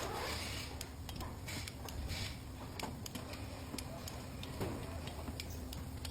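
Scattered, irregular light clicks and taps of tools and metal parts handled during cylinder head installation, over a low steady hum.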